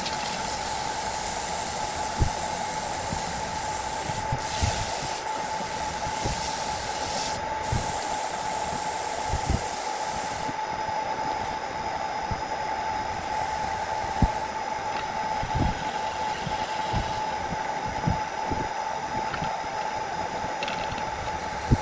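Wood lathe running steadily, with a constant whine over a hiss and scattered short low knocks. The highest hiss drops away about halfway through.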